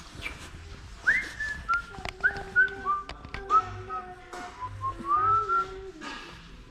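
A whistled melody of short notes, many sliding up into pitch, over a lower held accompaniment.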